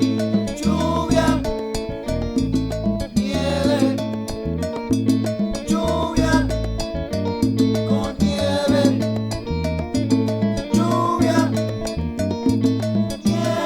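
Salsa music from a full band, with a stepping bass line under layered instruments, playing without a break.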